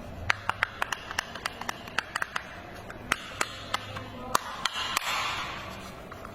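Irregular sharp plastic clicks and taps, about two to three a second, from a toy truck being handled, with a brief rustle about five seconds in.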